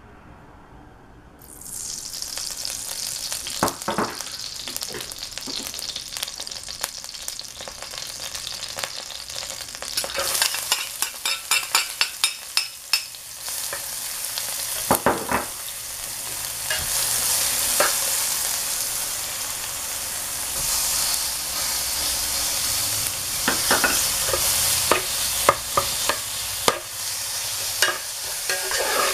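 Chopped onion and then ground meat sizzling in oil in an electric pot, stirred with a metal spatula that clicks and scrapes against the pan. The sizzle starts suddenly about a second and a half in and gets louder in the second half.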